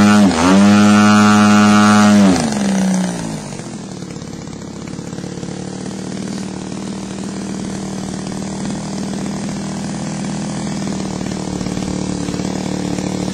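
RC model airplane engine running at full throttle on the ground during needle tuning. Its pitch wavers briefly, then holds high, and about two and a half seconds in it is throttled back and winds down to a steady, much quieter idle.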